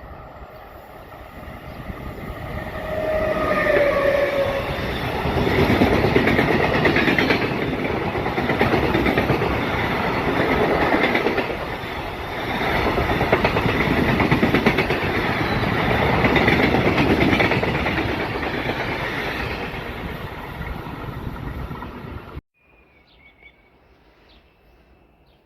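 A train sounds a short horn note, then passes close by with a loud rolling rumble and clatter of wheels on the rails that swells and eases in waves. The sound cuts off abruptly near the end.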